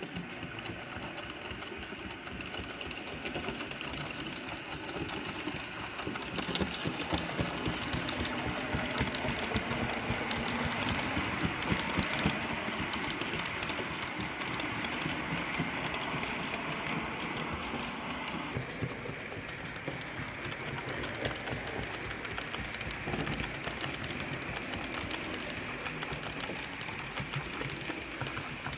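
Model train running on a layout's track: a steady small-motor hum with dense, rapid clicking of wheels on rail. It grows louder about a quarter of the way in and eases off after the middle, as the train passes close.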